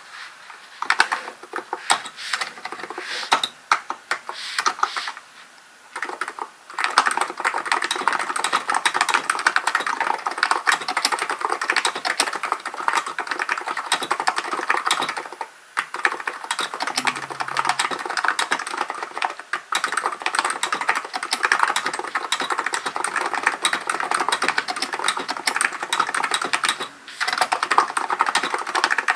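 Typing on a Hansung GK898B electrostatic capacitive (contactless) keyboard: scattered keystrokes for the first several seconds, then fast, steady typing with two brief pauses.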